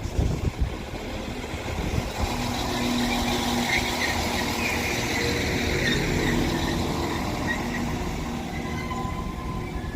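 Northern Class 195 diesel multiple unit pulling into the platform: a steady rumble and engine hum with high-pitched squealing that builds up in the middle and fades again. There are wind gusts on the microphone in the first second.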